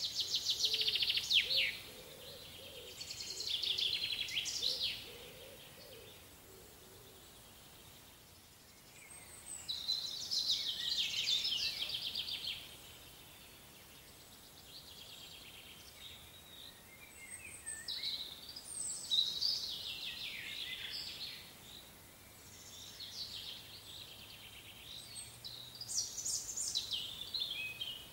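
A songbird singing: five phrases of quick descending trills, each a couple of seconds long, with several seconds' pause between them, over faint forest background.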